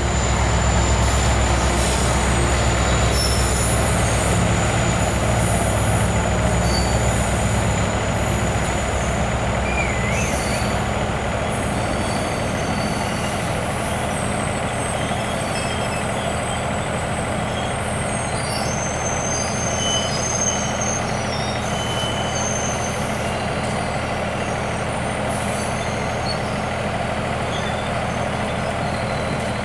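Train engine running with a deep, steady rumble that eases about ten seconds in, over a constant broad rushing noise.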